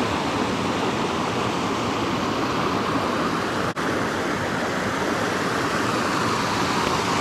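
Waterfall rushing steadily, with a brief break about three and a half seconds in.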